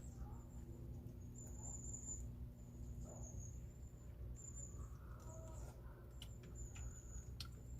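Faint rural yard ambience: high, thin trills in short bursts over a low steady hum, with chickens clucking softly close by.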